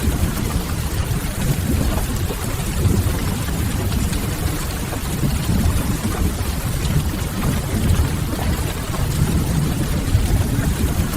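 Mixed rain-and-fireplace ambience: a steady hiss of rain over a fluttering low rumble of fire, with no breaks or single events standing out.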